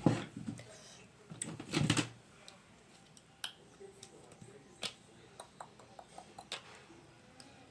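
Soft speech in the first two seconds, then faint scattered clicks and taps of small things being handled.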